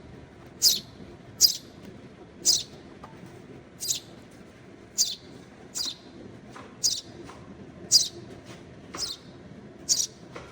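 Sparrow fledgling giving short, high begging chirps, about ten of them roughly a second apart, as it is hand-fed seeds.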